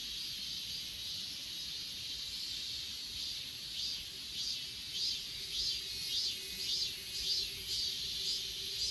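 Grass insects singing: a steady high-pitched shrill trill with rhythmic chirps, about two a second, from about halfway through. A faint steady low hum joins at the same point.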